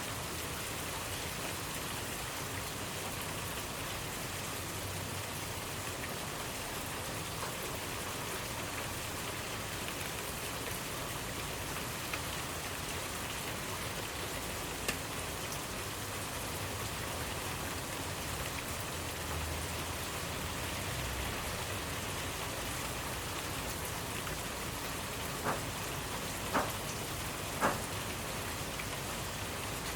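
Steady rainfall, an even hiss of rain with individual drops landing close by, three louder drop strikes near the end.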